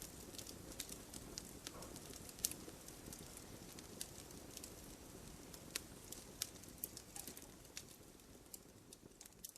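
Wood fire in a fireplace crackling, with irregular sharp pops over a low steady rumble of flames, slowly fading toward the end.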